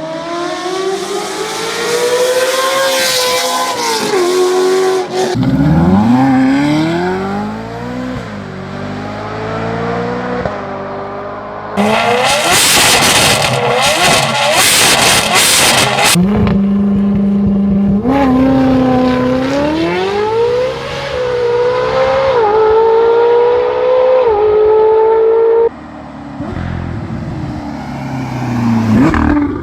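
Ferrari engines revving and accelerating through their straight-piped exhausts. The pitch climbs and falls in repeated runs, in several short clips joined by abrupt cuts. In the middle, one clip holds a steady rev for about two seconds.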